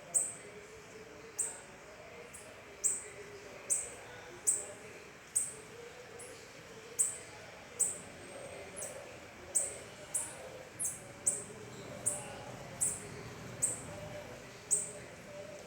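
A small bird calling with short, high-pitched chirps, each dropping quickly in pitch, repeated about once a second, some in quick pairs.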